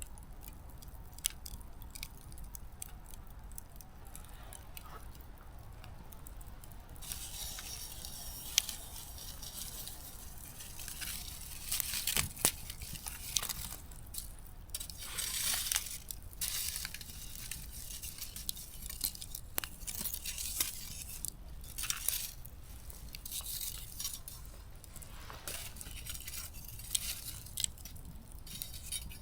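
Small wood fire burning low into embers, with scattered sharp crackles and pops over a faint hiss. Partway through, the hiss grows, with a few louder rushing flare-ups and one sharp pop.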